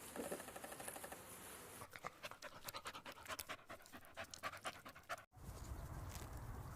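A dog panting quickly and faintly, breaking off abruptly about five seconds in, followed by a low steady hum.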